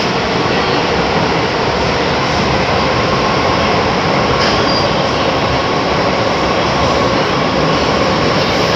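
Metro-Cammell M-Train electric multiple unit running in a tunnel, heard from inside the carriage: a steady rumble of wheels on track with a faint steady whine.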